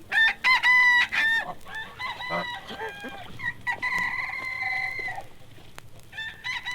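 Rooster crowing over and over, one crow ending in a long held note; another crow begins near the end.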